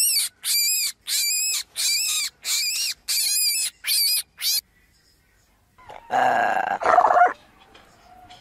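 A young animal's high-pitched squeaking calls, each rising and falling, about two a second for some four seconds. After a short pause a single louder, harsher animal cry follows.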